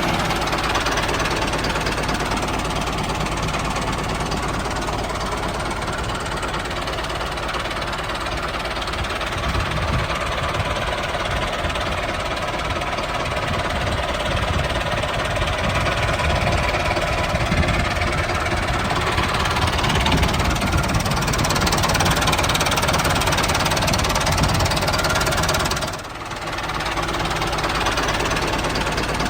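Small motor-driven machine running steadily, with a short dip in level near the end.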